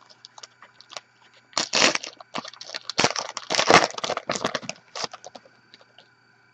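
Foil trading-card pack wrapper being torn open and crinkled by hand, a dense crackling in two main bouts that dies away after about five seconds.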